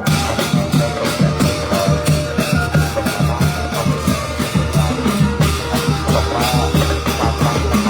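Thai brass band (trae wong) playing lively music over a steady drum beat, with bass drum and cymbals keeping time under the horns.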